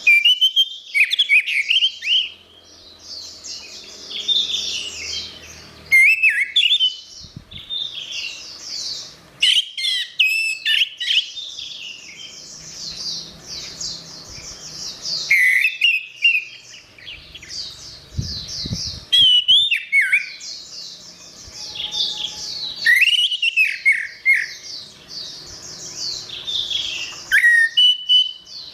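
Orange-headed thrush singing: bursts of fast, high twittering mixed with whistled notes, each burst a few seconds long with short pauses between them.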